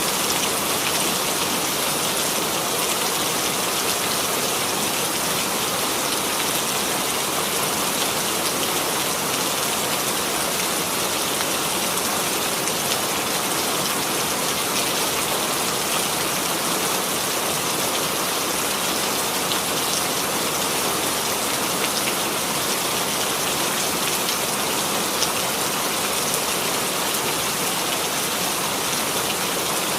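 Steady rain falling on a hard surface, a dense even patter of many small drops with no thunder.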